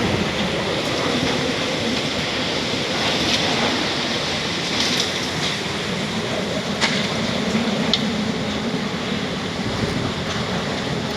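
Squall wind with heavy rain: a steady rushing noise, with a few sharp ticks.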